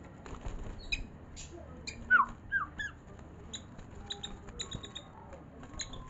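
White-rumped shama (murai batu) singing: a run of short, high chirps and clicks, with three quick falling whistles a couple of seconds in as the loudest notes.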